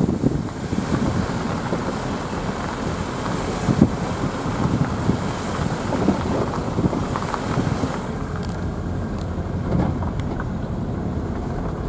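Wind buffeting the microphone, giving a steady low rumble with uneven gusty swells.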